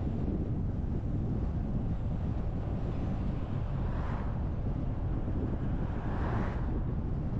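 Steady low rumble of road and wind noise from a car driving, with two brief swells of hiss about four and six seconds in.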